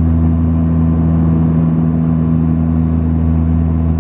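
Steady drone of a Saab 340B's twin GE CT7 turboprop engines and propellers heard inside the passenger cabin: a constant low hum made of a few steady low tones over a noisy rush.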